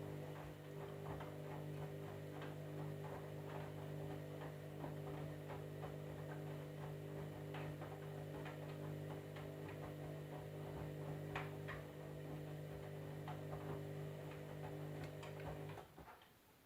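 Candy washing machine running: a steady motor hum with scattered light ticks and clicks, which cuts off abruptly about a second before the end.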